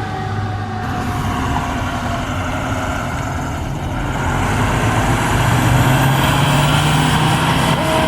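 A fire truck's diesel engine running, getting louder about halfway through as the truck draws near. A siren tone slides slowly down near the start.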